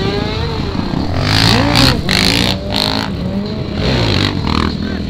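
Motorcycle engines running and revving, the pitch rising and falling briefly about a second and a half in, with a few loud rushes of noise in the middle.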